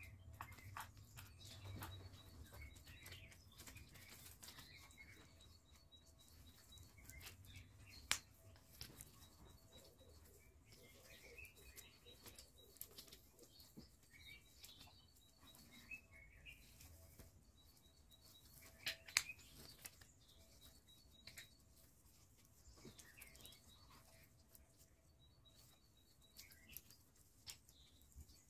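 Near silence with faint bird chirps in the background and a few sharp clicks, the loudest about 8 and 19 seconds in.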